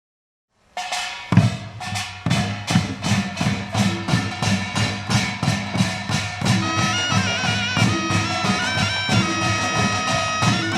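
Korean folk-music drums strike up after a brief silence, settling into a steady, fast beat. From about six and a half seconds, a high melody that steps up and down in pitch joins over the drumming.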